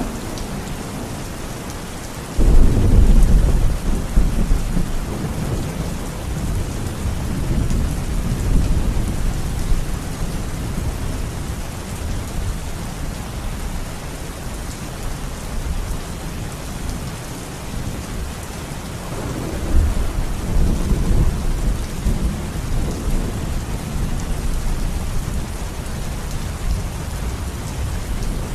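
Steady rain falling, with thunder rumbling twice: a sudden loud low crack-and-rumble about two and a half seconds in that dies away over several seconds, and a longer, softer rumble about twenty seconds in.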